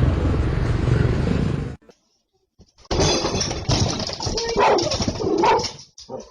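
A dog vocalizing in a few short calls that bend in pitch, after a brief silence. Before the silence a steady low rumble cuts off suddenly.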